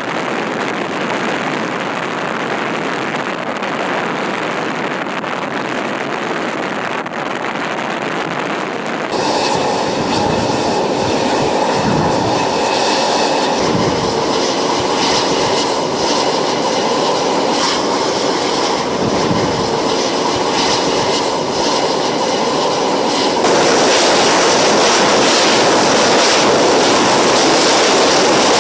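Carrier aircraft engines running on the flight deck: a loud, steady roar that grows louder in two steps, about nine seconds in and again a few seconds before the end.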